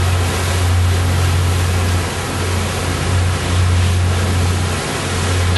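Yacht underway: a steady low rumble under a loud, even hiss of wind and rushing water.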